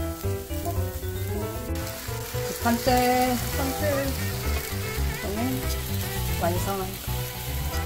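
Takoyaki balls sizzling as they fry in an oiled takoyaki pan, the hiss growing stronger about two seconds in, over background music.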